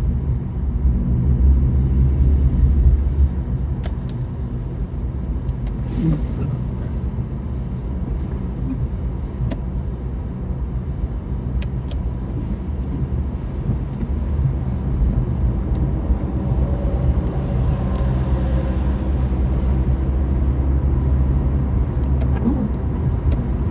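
Road noise inside a moving car on a highway: a steady low rumble of engine and tyres, with a few scattered sharp clicks.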